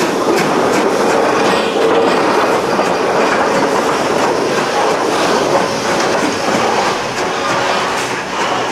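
A train running along the track with a steady noise that eases slightly near the end.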